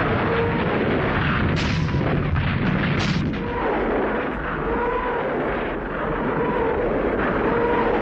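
Katyusha rocket launcher firing a salvo: a continuous rushing roar of rockets going off in quick succession, with a rising-and-falling howl that recurs every second or so. Two sharper blasts stand out about one and a half and three seconds in.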